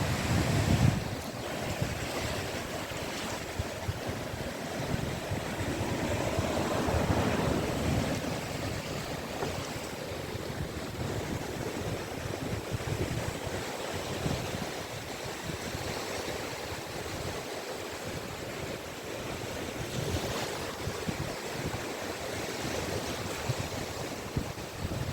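Caspian Sea waves breaking and washing up a beach: a continuous rush of surf that swells and eases, with one louder surge a few seconds in.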